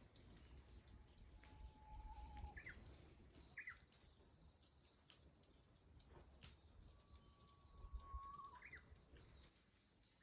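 A songbird singing faintly in two phrases: each a long steady whistle followed by a quick, higher flourish, the second phrase near the end. There are scattered faint clicks as well.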